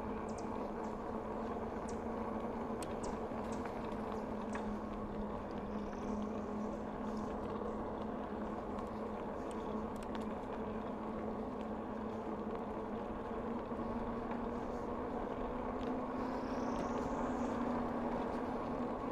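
Steady hum of a bicycle rolling along a trail, growing slightly louder near the end, with a few faint ticks.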